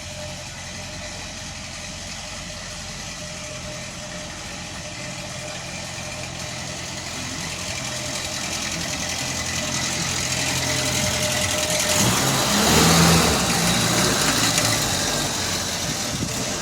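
Ford CHT four-cylinder car engine running steadily at idle, then growing louder and noisier about twelve seconds in. The owner says this engine has a noisy timing chain.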